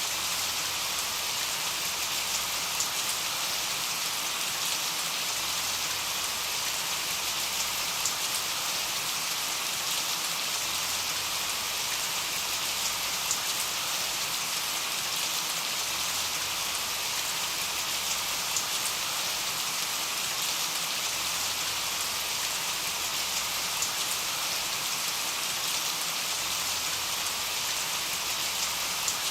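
Steady rain falling: an even hiss with scattered ticks of single drops, unchanging throughout.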